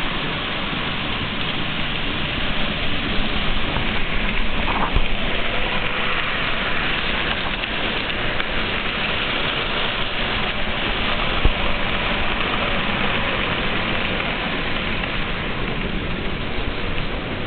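HO-scale model train running on the layout's track, a steady rushing noise of its wheels and motor.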